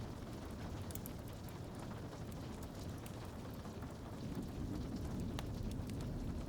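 Wood fire crackling with scattered sharp pops over a steady rush of rain on a window. A low rumble swells about four seconds in.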